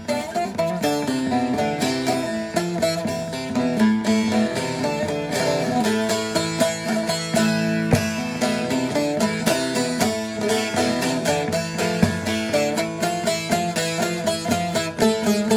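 Bağlama (Turkish long-necked lute) played in quick, ornamented runs of plucked notes, improvising on a melody.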